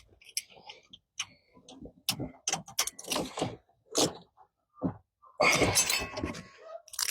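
Irregular metallic clicks and clinks of hand tools working on the spark plugs, with a longer, denser clatter about five and a half seconds in.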